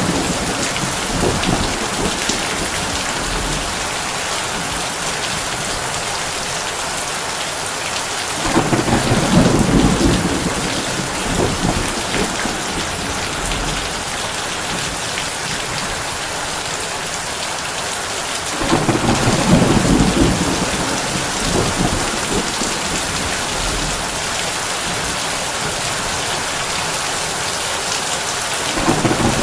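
Heavy rain falling steadily on a tin roof, with rolling thunder swelling in low rumbles three times, about every ten seconds.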